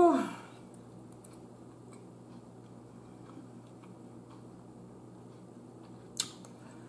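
A person chewing food quietly, with faint scattered mouth clicks and ticks over a low room hum. It opens with a short vocal sound that falls in pitch, and there is one sharp click about six seconds in.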